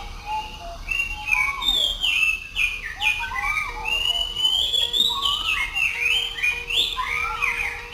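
Birds chirping: a dense, continuous run of quick high calls sliding up and down in pitch.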